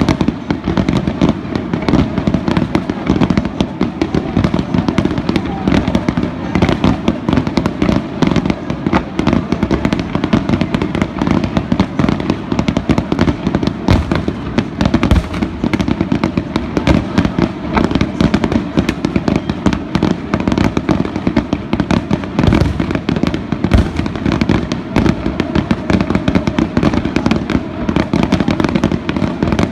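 Fireworks finale barrage: aerial shells bursting in a rapid, unbroken stream of overlapping booms and bangs, with no let-up.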